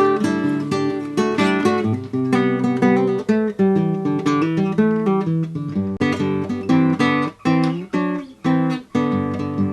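Acoustic guitar music, strummed and picked notes in a steady rhythm: the video's theme tune.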